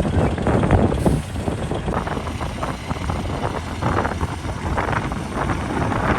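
Heavy diesel earthmoving machinery running at work, a steady low rumble with rough, irregular clatter over it.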